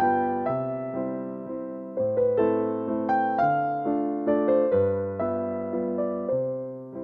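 Slow, gentle piano music: a melody of single notes over soft chords, each note struck and left to fade.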